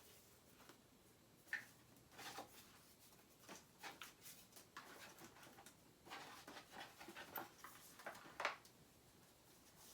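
Faint rustling and light clicks of stickers and paper being handled, as the next sticker is drawn from a box. The clicks are scattered and irregular, with the sharpest ones about a second and a half in and near the end.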